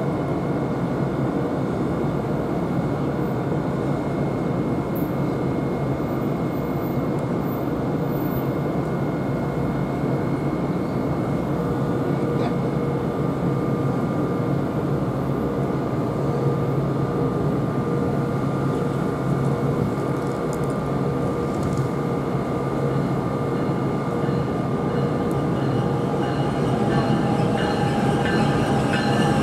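Electric passenger train running on the tracks: a steady rumble with several steady tones held throughout.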